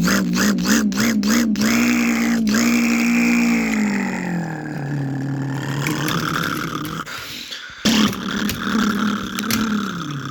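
A person making a long droning sound effect with the voice. It wavers in pitch at first, then slides lower about four seconds in, and starts again near eight seconds. A few sharp taps or clicks come in the first second and a half.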